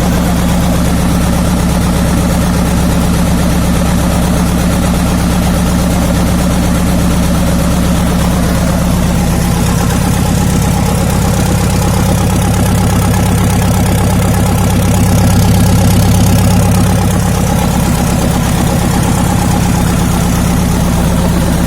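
Nissan FD42 inline-six diesel with a mechanical injection pump idling steadily on a test stand, cold on its first start. It runs evenly with no extraneous noises, a sign of a healthy engine. It grows slightly louder for a few seconds past the middle.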